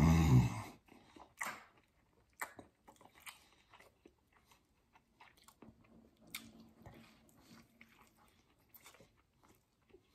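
A man chewing a mouthful of breakfast burrito close to the microphone, loudest at the very start, then quieter scattered mouth clicks.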